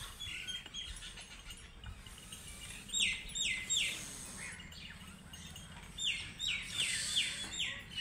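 Bird calls: a series of short, sharp chirps, each sliding down in pitch, three in quick succession about three seconds in and five more about six seconds in.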